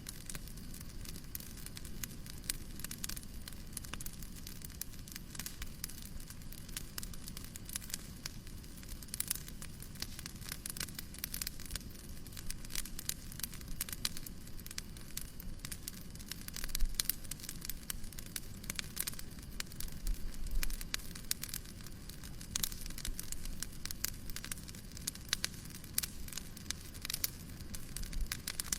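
Wood fire crackling in a fireplace: a dense, irregular run of small pops and snaps over a steady low rumble and soft hiss.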